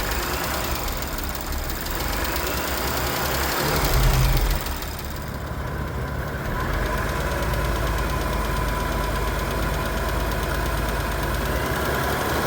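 Audi B9 S5's EA839 3.0-litre TFSI V6 engine running with a regular clicky, tappy knocking from the top end: the sign of cam follower roller bearings failing from premature wear. The engine sound swells briefly about four seconds in.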